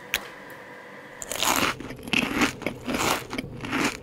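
A person chewing a bite of a chewy orange halwa cube with nuts, close to the microphone. There is a single click right at the start, then from about a second in come chewing strokes about twice a second.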